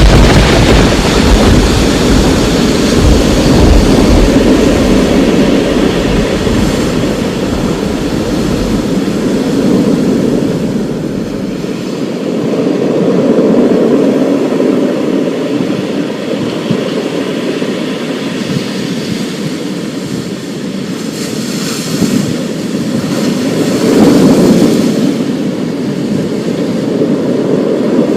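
Thunder breaks suddenly and rolls on as a deep rumble for several seconds. Further rumbles swell later, over a steady rush of storm noise.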